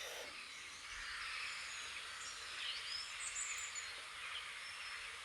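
Steady outdoor ambience of a forest, an even hiss, with a few faint bird chirps near the middle.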